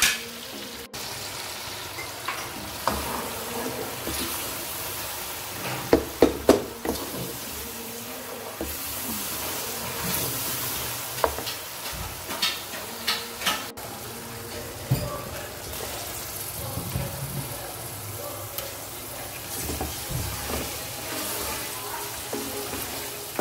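Onion-tomato masala with spices frying in oil in a metal pan, sizzling steadily, while a spoon stirs it and knocks against the pan now and then, in clusters of sharp clacks.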